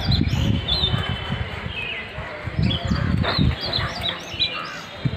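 Small birds chirping, short high calls repeated over and over, over a low uneven rumble.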